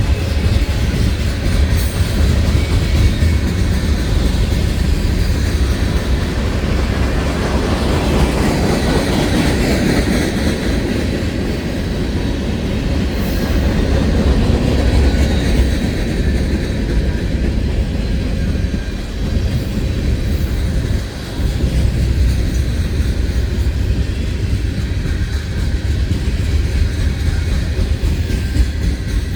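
Union Pacific freight train rolling by with a steady low rumble, swelling louder about eight to twelve seconds in.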